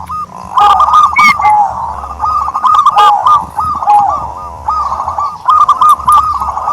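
Dove cooing in quick phrases of short, repeated notes, one phrase after another.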